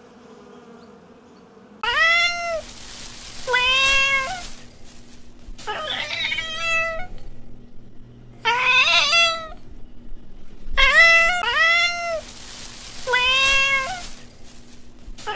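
Faint steady buzzing of a honeybee for about the first two seconds. Then a domestic cat meowing again and again: about seven short, arched meows, some more broken and chirpy, with gaps of a second or so between them.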